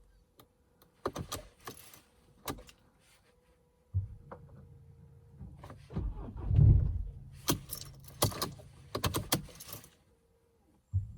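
Car keys jangling and clicking at the ignition, then the Mercedes C220 CDI's diesel engine being cranked by the starter for about six seconds without catching. It stops, then cranks again near the end: a long, hard cold start in deep frost.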